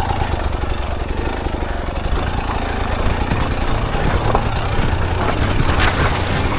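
KTM 300 XCW two-stroke dirt bike engine running steadily at low revs.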